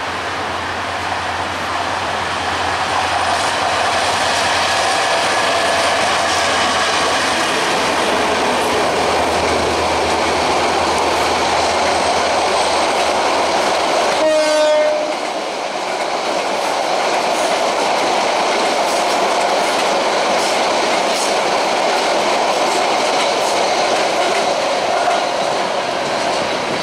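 Diesel locomotive running with a low engine drone as the express train approaches, then its passenger coaches rolling past with steady wheel and rail clatter. About halfway in there is a short horn-like tone where the sound changes abruptly.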